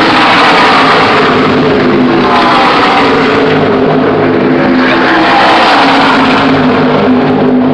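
Pack of NASCAR stock cars' V8 engines at full throttle racing past, several engine notes overlapping and sliding in pitch as each car goes by. Very loud.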